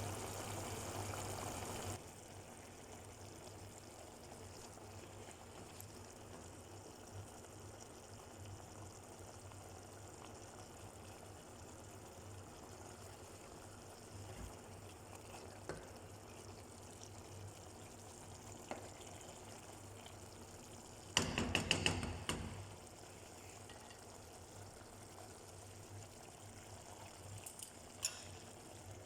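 Pot of chicken adobo simmering, a low steady bubbling. A brief louder burst of knocks comes about three-quarters of the way through.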